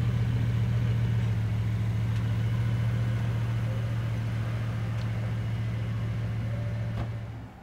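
Bugatti Veyron's 8.0-litre quad-turbo W16 idling with a steady low drone that stops abruptly near the end.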